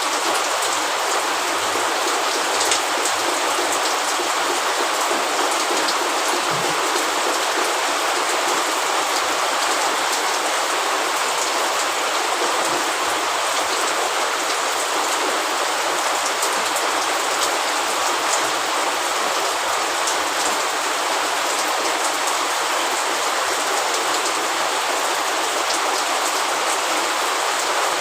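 Steady rain falling: a dense, even hiss of rain with single drops ticking sharply here and there.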